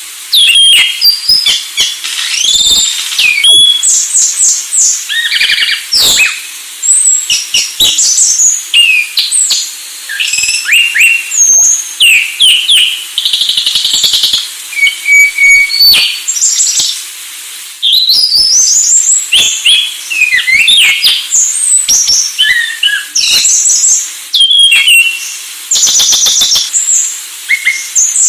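An anis Sulawesi thrush singing loudly: a varied song of quick whistled phrases, fast trills and sharp chips, with short pauses between bursts.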